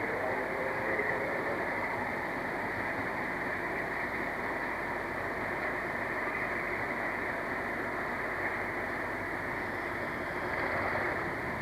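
A train running along the line: a steady rumbling noise that does not rise or fall.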